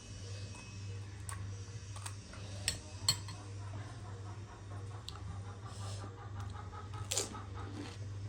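Close-up eating sounds: chewing with a few sharp clicks and clinks of cutlery and crisp food, over a steady low hum.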